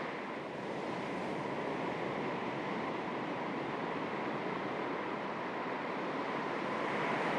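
Small sea waves lapping on the shore of a calm sea: a steady wash of water noise that swells slightly near the end, with a faint steady hum underneath.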